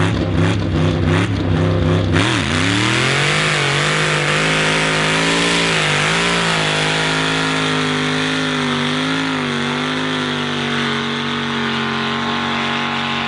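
Modified hill-climb van's V8 engine at full throttle climbing a sand dune. It pulses rapidly for the first two seconds, dips in pitch briefly, then rises, wavers and holds a high, steady note.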